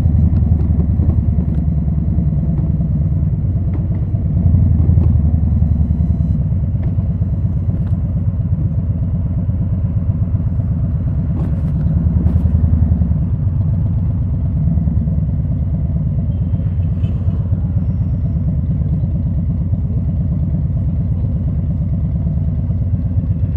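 2020 Harley-Davidson Low Rider S's Milwaukee-Eight 114 V-twin running through Rinehart slip-on exhausts, a steady deep pulsing exhaust note that swells louder twice, about four seconds in and again around twelve seconds.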